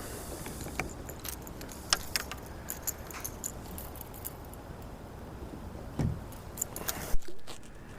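Irregular light clicks and a metallic jingle from fishing tackle as a lipless crankbait is cast and worked from a kayak. A steady low wind rush runs underneath.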